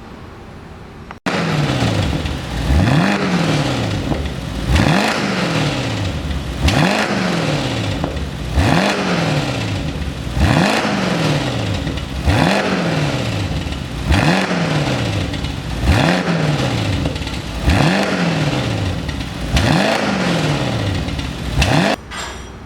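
Mercedes-Benz SLK55 AMG V8 revved over and over through an aftermarket dual valved exhaust. There are about ten blips, roughly one every two seconds, each rising quickly and falling back more slowly. The first blip comes about a second in, after a short stretch of low idle.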